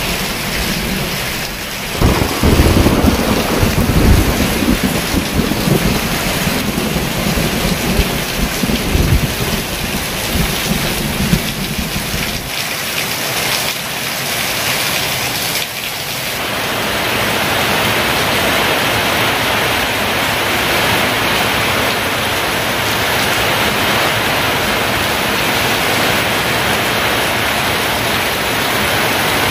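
Heavy rain falling steadily, with thunder rumbling low and loud through the first twelve seconds or so and peaking about two and four seconds in. After the rumble dies away, the downpour continues as an even, louder hiss.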